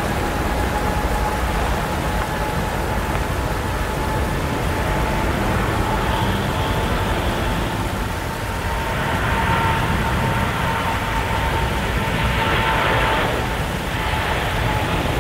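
Jet airliner engines running: a steady high whine over a broad rumbling roar, the whine rising slightly in pitch at first and then holding level.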